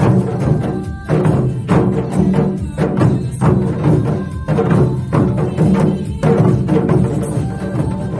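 Janggu hourglass drums struck in a steady beat along with upbeat music: a group playing gogo janggu.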